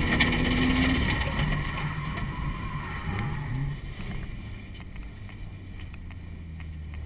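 Car engine heard from inside the cabin: held at high revs for about a second, then dropping off the throttle, with a couple of short rises in revs near the middle, and settling to a low, steady idle as the car slows.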